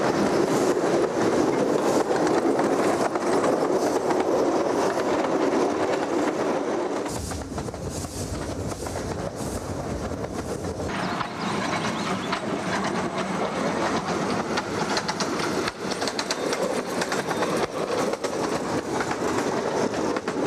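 A train running along the track, its wheels clicking over the rail joints. About seven seconds in the sound deepens into a heavier rumble for a few seconds, then the clicking carries on.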